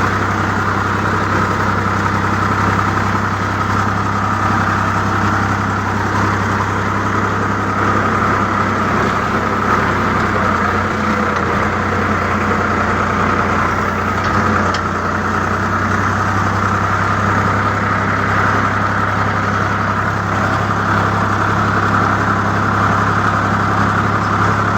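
Sonalika DI 745 III 4x4 tractor's diesel engine running steadily at an even speed, with no revving.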